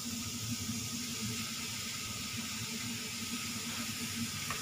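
Sliced pork with ginger, shallots and garlic sizzling gently in oil in a wok over low heat: a steady hiss.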